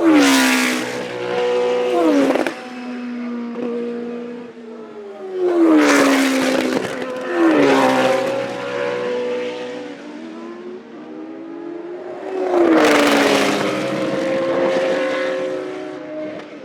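Classic Formula 1 cars passing at speed one after another, each engine loud as it comes by and then dropping in pitch as it goes away. There are four passes: at the start, then about six, eight and thirteen seconds in.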